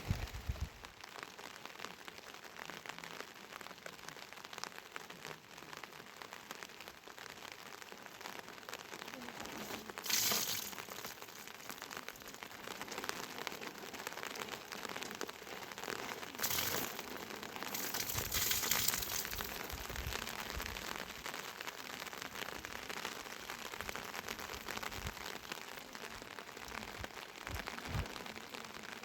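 Rain pattering steadily, a dense hiss of fine drops. There are brief louder swells of noise about ten, sixteen and eighteen seconds in.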